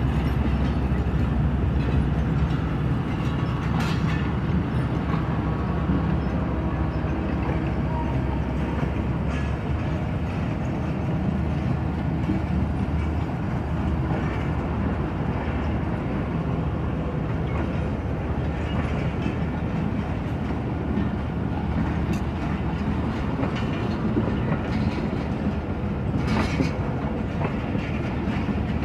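Passenger train coaches rolling past: a steady rumble with wheels clicking over the rail joints, and a few sharper clicks.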